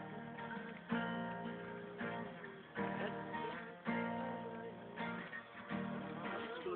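Acoustic guitar strummed, with the chord changing roughly once a second.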